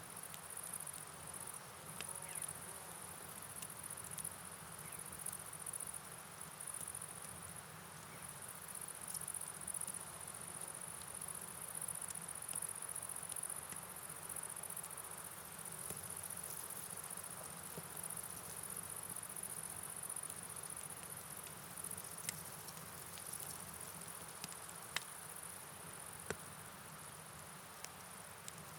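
Steady night rain-and-river ambience: an even hiss with a high, shrill band on top, broken by a few sharp ticks in the second half.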